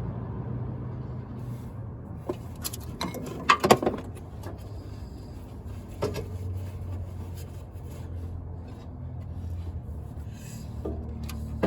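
Scattered sharp clicks and knocks of hand work on the power steering hose fitting, with a cluster of louder knocks about three and a half seconds in, over a steady low hum.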